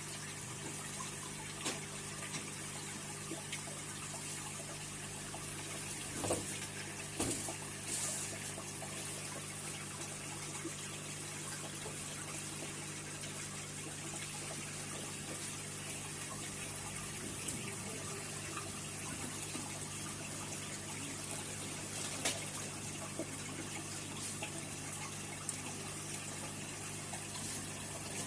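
Aquarium water trickling and bubbling over a steady low hum from the filter pump, with a few brief louder splashes.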